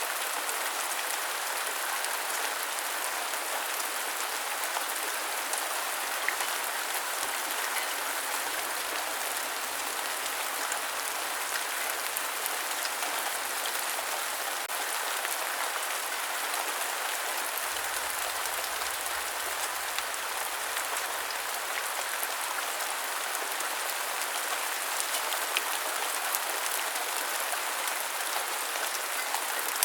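Steady rain falling, an even hiss of drops with a few louder drips standing out.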